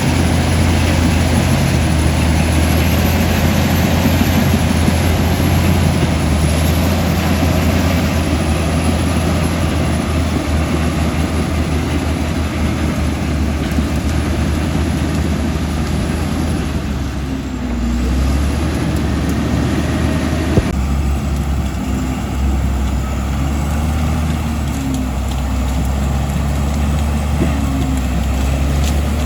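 Komatsu D65E bulldozer's diesel engine running steadily under load. Its note dips briefly a little past the middle.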